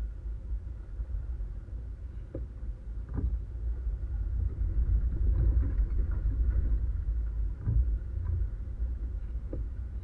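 A 4x4 vehicle grinding slowly through a creek crossing: a steady low engine rumble that swells in the middle, with a few sharp knocks from the rocks and suspension.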